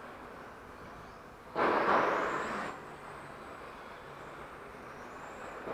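Electric RC touring cars racing on a carpet track, passing close about a second and a half in for about a second, with their brushless motors and gears whining as they accelerate; fainter motor whine follows as they move away.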